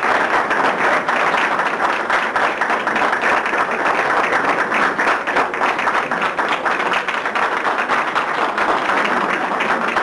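A group of people applauding steadily, many hands clapping at once.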